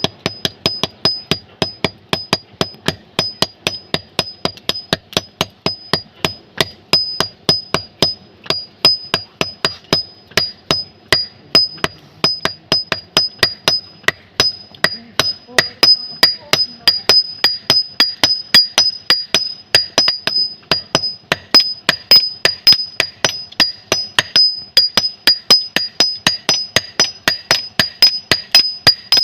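Blacksmith's hammer striking on an anvil in a steady rhythm, about three to four blows a second, each blow followed by a short high ring.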